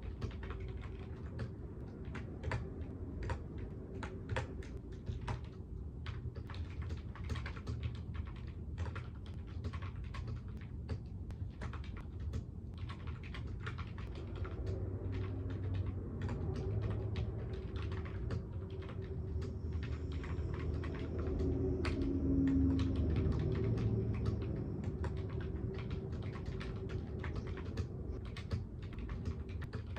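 Typing on a computer keyboard: a steady run of irregular keystroke clicks over a low, steady background hum.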